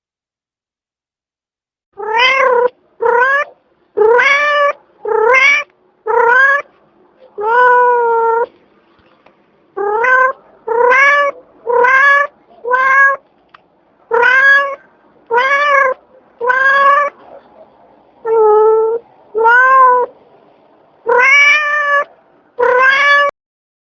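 A domestic cat meowing over and over, starting about two seconds in: some seventeen short meows about a second apart, each rising slightly in pitch and then dipping, with one longer drawn-out meow about eight seconds in.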